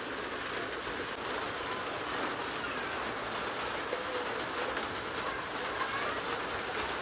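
Steady hiss of rain, with several short bird calls through it.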